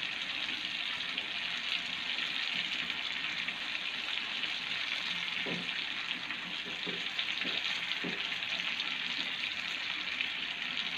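Marinated chicken pieces sizzling steadily in hot oil in a nonstick pan, with a few knocks of a wooden spatula in the middle as the pieces are turned over.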